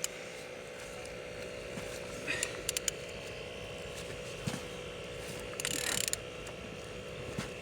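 Removed car engine being turned over by hand to show it rotates freely: a few sharp clicks and short spells of metallic scraping and rubbing over a steady background hum, with a single knock near the middle. The engine turns smoothly.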